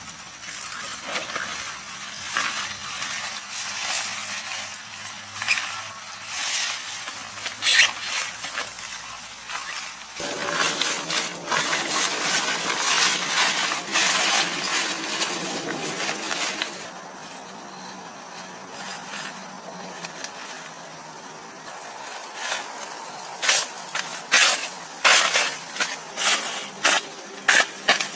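Series of sharp knocks, clicks and clinks from objects being handled, over a steady noise. The knocks come thickest near the end.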